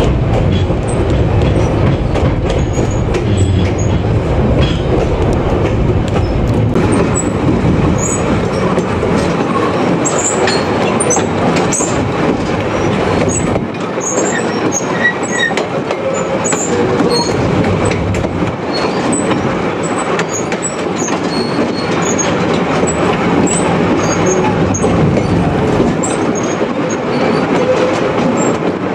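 Vintage train running along the track, heard from an open carriage: a steady rumble and rattle of wheels on rail, with many short high squeaks and creaks. The deep low rumble is heavier in the first third and then thins out.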